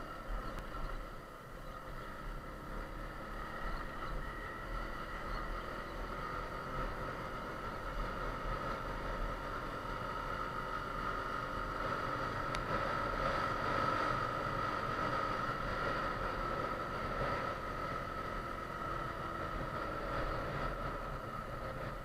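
Yamaha TTR 250's single-cylinder four-stroke engine running steadily under way, with a steady whine and a little louder around the middle.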